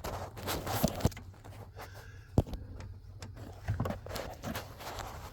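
Hand tools clicking and knocking against metal, with scraping and rustling in between, while nuts on the steering column mounting are being worked loose under a truck dash. The clicks come at irregular intervals, with one sharp click about two and a half seconds in.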